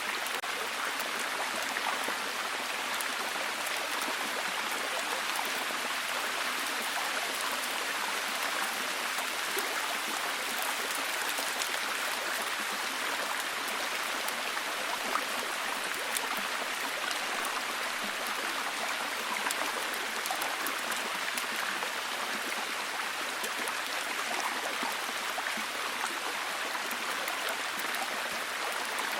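Steady heavy rain, an even hiss with dense pattering drops.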